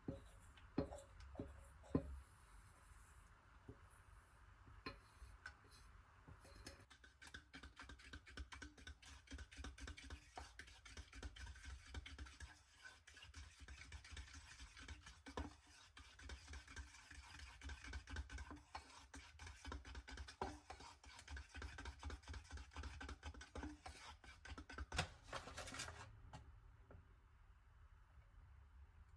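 Kitchen utensils at work preparing brownie batter: a few sharp knocks at first, then a long run of rapid, light scraping and clicking that stops near the end.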